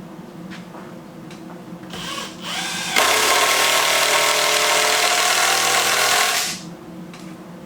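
Power drill driving a screw: the motor spins up in short trigger pulls, rising in pitch, then runs loud and steady for about three and a half seconds and stops suddenly.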